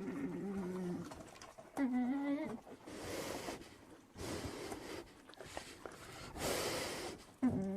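Bear vocalising: short moaning calls alternating with long breathy huffs.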